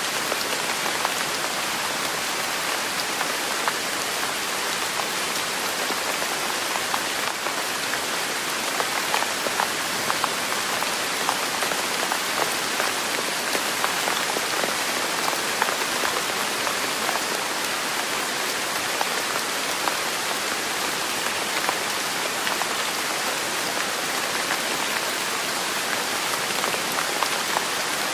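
Steady rain: an even hiss of falling rain with many individual drops heard as small sharp ticks.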